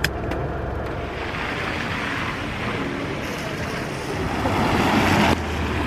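Steady hiss of rain and wet-road noise over a low rumble, growing louder and then dropping suddenly about five seconds in.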